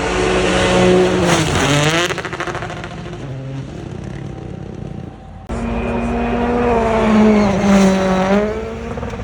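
A World Rally Championship rally car engine at high revs as the car passes at speed, its pitch dropping sharply about a second and a half in. A second rally car starts about five and a half seconds in, running at high revs, with its pitch falling near the end.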